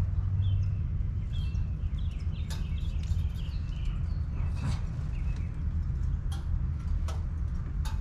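Backyard birds chirping in short, scattered calls, with a few sharp clicks among them, over a steady low rumble.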